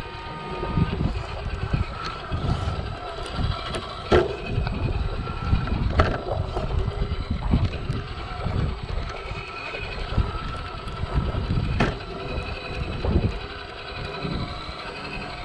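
Traxxas TRX-4 RC crawler's electric motor and gears whining at changing pitch, with a few sharp knocks as it works over rocks, over a gusty low rumble.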